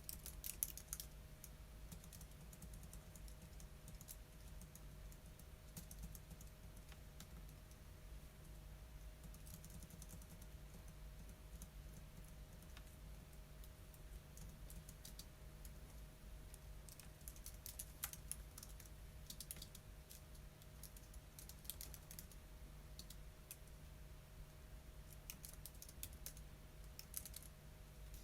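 Faint typing on a computer keyboard, coming in short bursts of key clicks separated by pauses, over a steady low hum.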